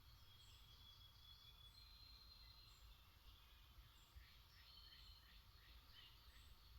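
Faint songbirds in the woods, near silence otherwise: thin held whistled notes, then from about four and a half seconds in a quick series of short descending notes.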